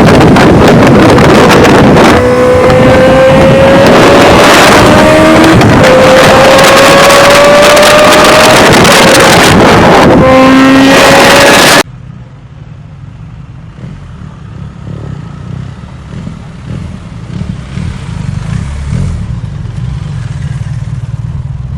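Superbike engine accelerating hard through the gears, very loud. Its pitch climbs and drops back at each of several upshifts. About halfway through it cuts off suddenly to a much quieter low rumble that slowly builds.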